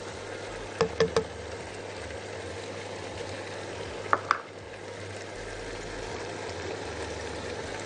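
Veal cubes, sliced onion, garlic and hot pepper sizzling steadily in hot oil in a pot as a silicone spatula stirs them. A few sharp knocks come about a second in, and two more near four seconds in.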